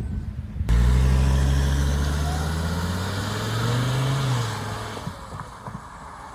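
Mercedes-Benz 300SD's five-cylinder turbo-diesel engine as the car drives off: a low steady engine note that cuts in suddenly under a second in, rises briefly around four seconds, then fades away.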